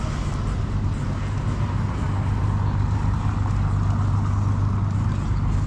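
An engine running steadily with a low hum, getting slightly louder about two seconds in.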